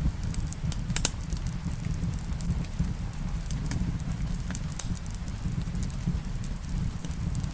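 Wood fire crackling in a fireplace, with sharp pops now and then (the loudest about a second in) over a steady low rumble of rain.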